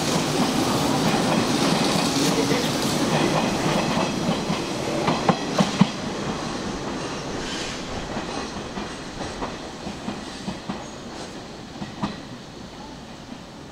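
Hanshin Railway electric train running on the line, its wheels clacking over rail joints. The sound fades steadily as the train moves away, with the sharpest clacks about halfway through and fewer, fainter ones near the end.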